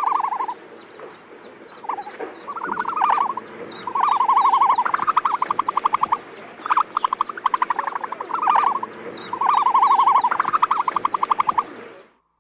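Animal calls: a series of rapid pulsed trills, several overlapping one another, over a faint, fast regular ticking higher in pitch. They stop abruptly near the end.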